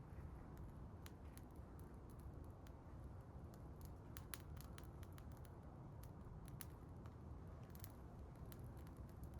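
Wood bonfire burning: faint, irregular crackles and sharp pops over a low, steady rumble.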